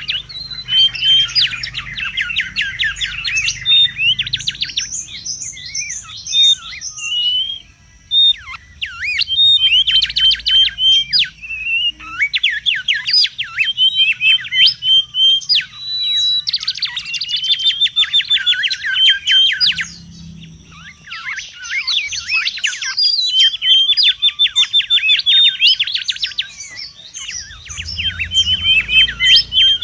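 Mangrove whistler calling busily: fast runs of sharp, sweeping whistled notes, repeated in bouts of a few seconds with brief pauses between.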